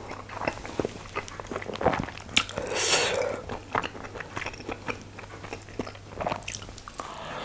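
Close-miked chewing of a chicken momo dumpling, with many small clicking mouth sounds and a short breathy hiss about three seconds in.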